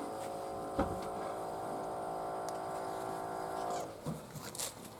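Hoover A3308 Computer Control 1100 washing machine giving a steady electrical hum while its programme is being selected, with a single click about a second in. The hum stops suddenly just before the end.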